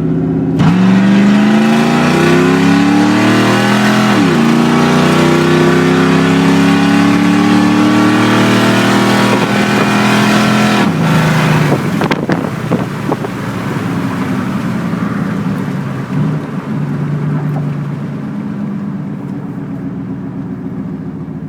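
2001 Dodge Ram's 318 (5.2 L) V8 with stock cast iron exhaust manifolds running through straight pipes with no catalytic converters or mufflers, accelerating hard from a roll. The engine note climbs, drops sharply about four seconds in as at a gear change, and climbs again for about seven seconds. Then it falls off and settles to a lower, steadier run that slowly fades.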